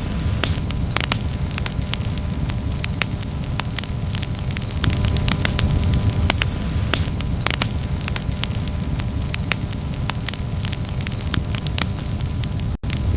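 Campfire burning, with frequent irregular crackles and pops over a steady low rumble. The sound cuts out for an instant near the end.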